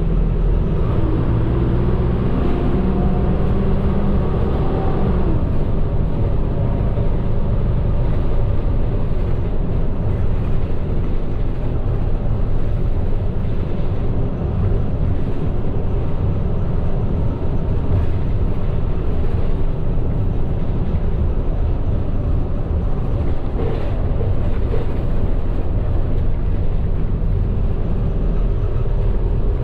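Medium bus engine and road noise heard from inside the cabin while driving. The engine note shifts in pitch over the first few seconds, then settles into a steady low rumble.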